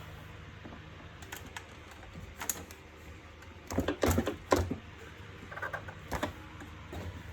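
Irregular clicks and knocks of vacuum-cleaner housing parts being handled and fitted together, with a cluster of louder knocks about four seconds in.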